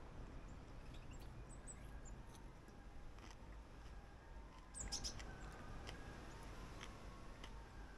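Faint garden ambience with a few soft bird chirps, and small wet mouth clicks from chewing a mouthful of cooked horsetail shoots, loudest about five seconds in.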